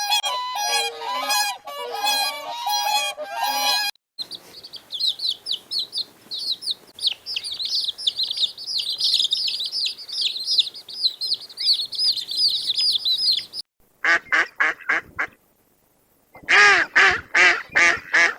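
A run of bird clips: geese honking repeatedly, then a dense chorus of high chirping, then a few short calls and a burst of loud, rapid calls near the end.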